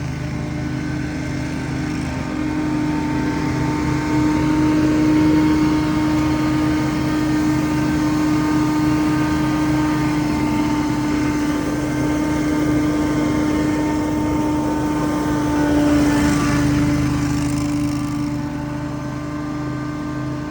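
Small engine of lawn-care equipment running steadily at a near-constant pitch, with a brief swell of rushing noise about three-quarters of the way through.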